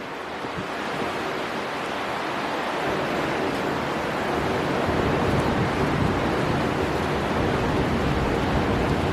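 Storm wind and sea surf, a steady rush of noise that builds a little louder over the first few seconds.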